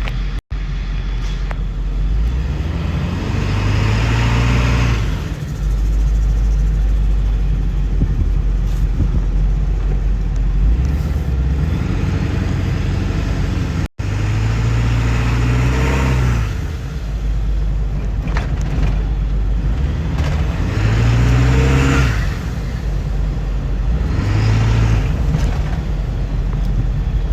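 Ford 7.3 Powerstroke turbo-diesel V8 with a 10-inch exhaust tip, heard while driving: a deep exhaust rumble that swells about four times as the truck accelerates, with turbo whistle over it. Two brief dropouts mark cuts between clips.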